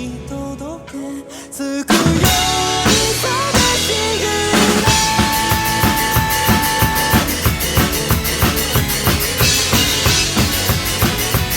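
Drum kit played along with a song's backing track. A softer, sparser passage gives way about two seconds in to the full kit, with bass drum and snare hits under quick, even cymbal strokes.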